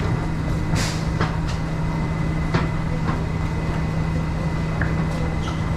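Interior of an MTR R-Train electric train standing at a platform with its doors open: a steady low hum and a thin high tone from the train's onboard equipment, with scattered light clicks and knocks.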